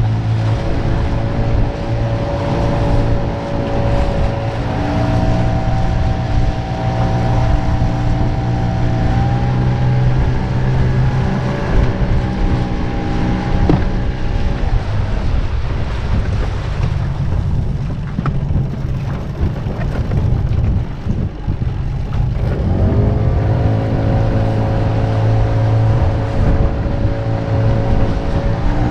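Mercury 9.8 hp outboard motor on a mini boat running under way, its pitch stepping up a few times with the throttle. About 14 s in it drops back to a low rumble, and about 22 s in it climbs sharply back to speed.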